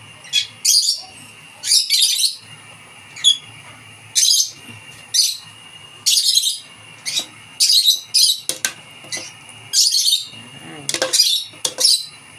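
Pet birds calling noisily: short, shrill chirps and squawks repeating irregularly, one or two a second.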